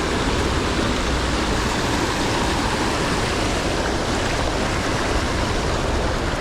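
Rushing creek water: a steady, even wash of flowing current.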